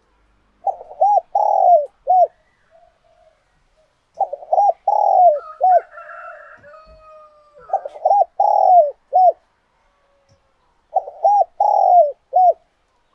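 Spotted dove cooing: four phrases a few seconds apart, each of two short coos, one longer drawn-out coo and a short closing coo.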